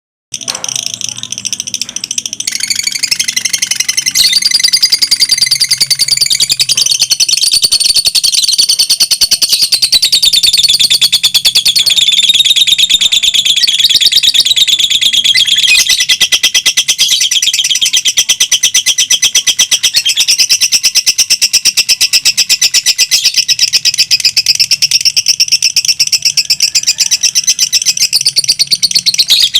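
Lovebirds giving a long, unbroken 'ngekek' song: a loud, very rapid, shrill chattering trill that never pauses. This is the extended trill that fighter lovebirds are kept and contested for.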